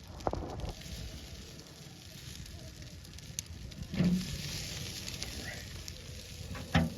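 Wood fire crackling and hissing in a grill used as a smoker. A few sharp knocks land over it: one just after the start, one about four seconds in and one near the end.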